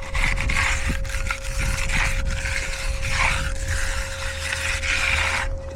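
Steel concrete finishing tool scraping along a wet concrete slab edge in repeated strokes, about five passes.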